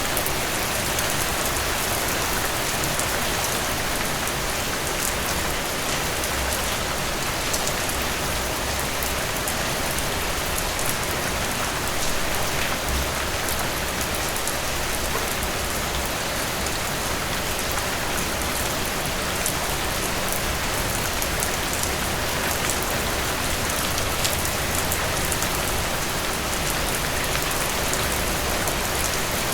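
Steady rain falling, drops pattering on a surface with a constant hiss and many small ticks.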